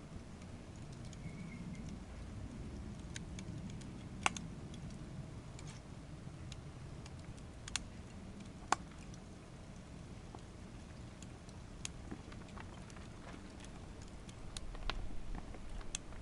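Wood fire burning in a small secondary-combustion Flame Stove: a low steady rush of flame with scattered crackles and three sharp pops of burning wood at about four, eight and nine seconds in. The low rushing grows louder near the end.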